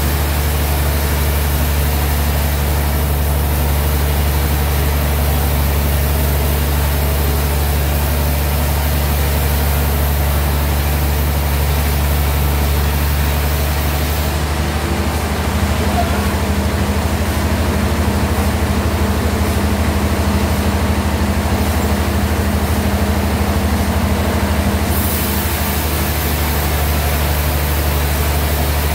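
Sawmill bandsaw machinery running with a steady low hum. About halfway through, the high hiss eases and a slightly higher tone joins in for some ten seconds, then the sound goes back as before.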